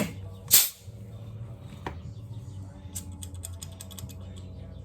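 Light metallic clicks and clatter of hand tools and parts being handled, a quick run of them about three seconds in, over a steady low hum. A short, sharp, loud noise comes just before the one-second mark.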